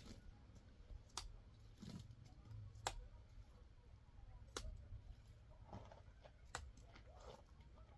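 Faint sharp taps or clicks, four clear ones spaced about one and a half to two seconds apart, over a low background rumble.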